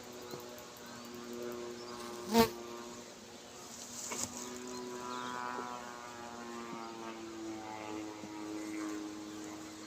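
Honeybees buzzing around an open hive, several overlapping hums that drift slowly in pitch. A single sharp knock about two and a half seconds in, and a few smaller clicks a little after four seconds.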